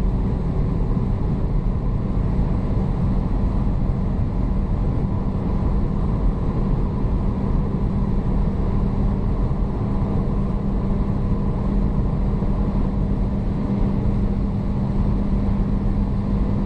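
Volkswagen Golf 7 GTI at high speed: the steady drone of its turbocharged 2.0-litre four-cylinder engine under heavy wind and road noise, its pitch holding level rather than climbing.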